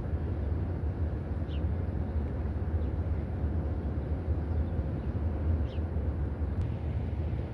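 Steady low outdoor background rumble, with a faint short high chirp about a second and a half in and another near the end.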